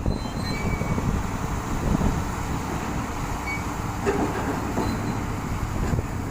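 Rotary bored-pile drilling rig running, a steady heavy low rumble of the machine, with a few short faint squeaks and a light knock about four seconds in.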